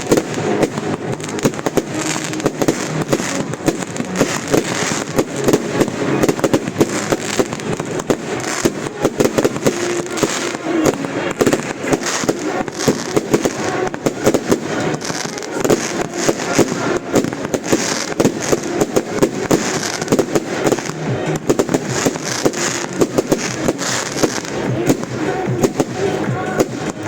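Fireworks going off in a rapid, unbroken string of bangs and crackles.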